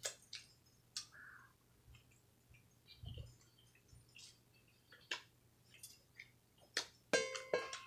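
Chewing and mouth sounds of someone eating a chalupa: faint, scattered smacks and small crunches, with a louder cluster near the end.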